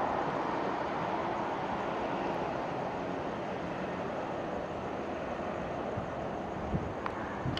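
MTR Q-train electric multiple unit running along the track away from the listener, its steady rolling noise slowly fading as it recedes. A couple of light clicks come near the end.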